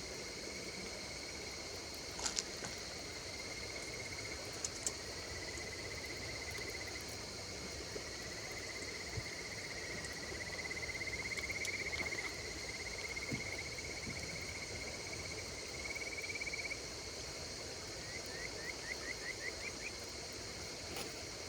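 Insects calling over a steady hiss: one long trill that swells in the middle, then a quick run of about six short rising chirps near the end. A few sharp crackles from the campfire in the first few seconds.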